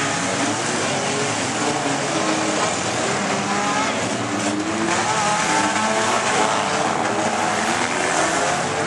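Demolition-derby cars revving hard in a pile-up, their engine notes rising and falling over the noise of spinning tires, with a couple of sharp bangs of cars hitting around four to five seconds in.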